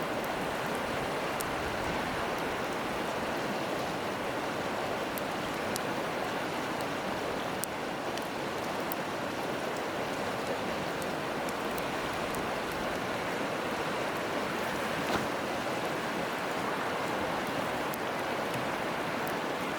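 Steady rush of river water, with sparse, sharp crackles and pops from a wood campfire.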